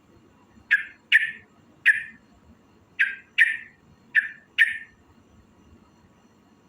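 Yellow-vented bulbul (trucukan) giving short, harsh calls, seven of them, mostly in quick pairs over about four seconds, then a pause.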